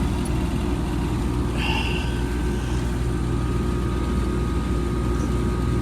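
Ameristar heat pump outdoor unit running: a steady mechanical hum from the compressor and fan.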